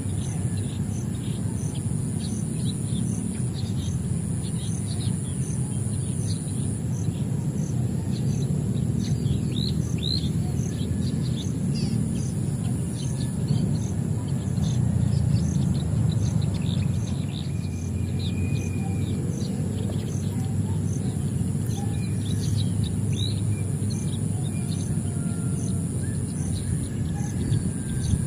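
Many small birds chirping with quick, short calls throughout, over a steady low rumble. A continuous high-pitched insect-like buzz and a regular high pulse, about one and a half a second, run underneath.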